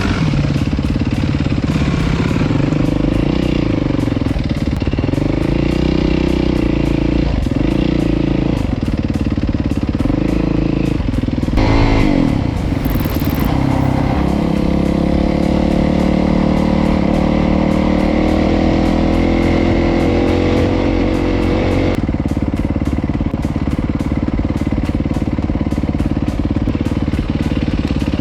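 Dirt bike engine running under way, its revs rising and falling as it is ridden along a trail, with a brief louder surge about twelve seconds in.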